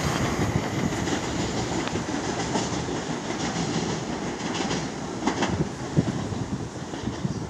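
Southern Class 377 Electrostar electric train moving away along the track. Its wheel and running noise fades steadily as it recedes, with a few sharp clicks about five and six seconds in.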